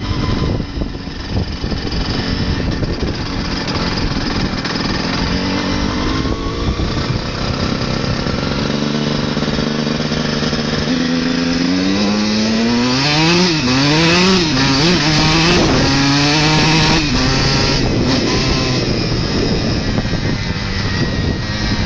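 Motocross motorcycle engine running, with a stretch of revving rising and falling in pitch several times about halfway through.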